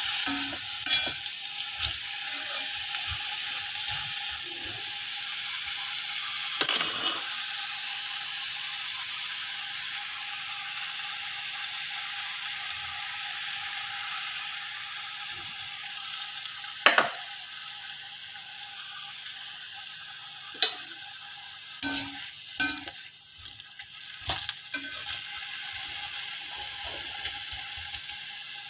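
Yam cubes sizzling in hot oil in a cast-iron kadai, with scattered clinks and scrapes of a perforated steel ladle against the pan. The sizzle softens in the second half as water is poured into the pan.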